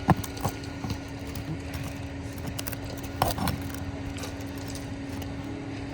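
Hammer claw prying at a stubborn roofing nail: a few short metal clicks and scrapes, the strongest about three seconds in, over a steady low hum.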